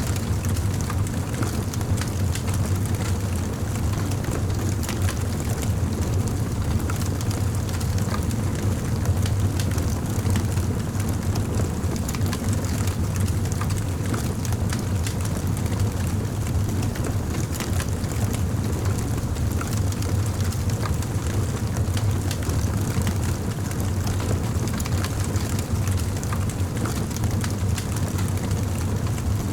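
Campfire burning, with many small sharp crackles and pops over a steady low rumble.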